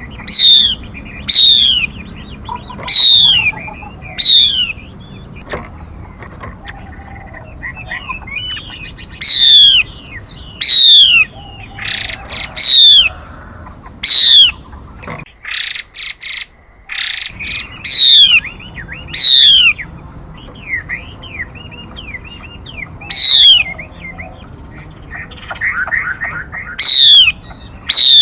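Calls of a female mi bird: loud, sharp downward-sweeping whistles repeated in clusters of two to four, with softer twittering between them and a short burst of dense chattering about halfway through.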